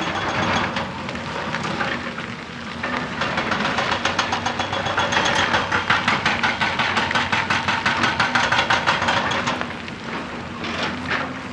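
Excavator's hydraulic rock breaker hammering in a rapid, even rhythm over the steady running of the machine's diesel engine. The hammering starts about three seconds in and stops shortly before the end.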